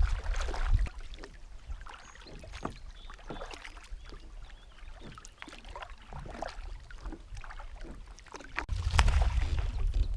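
Small splashes and light knocks of water around a fishing kayak, with wind rumbling on the microphone in the first second and again near the end.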